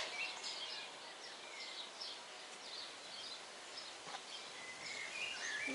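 Small birds chirping in the background, many short high calls scattered through, with one faint click about four seconds in.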